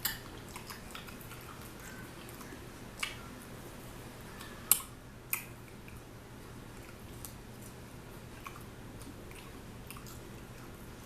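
A person chewing air-fried chicken wings close to the microphone, with a few sharp clicks of eating noise; the loudest comes about five seconds in.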